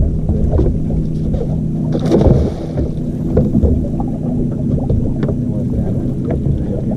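Boat motor running steadily, with scattered knocks and water noise.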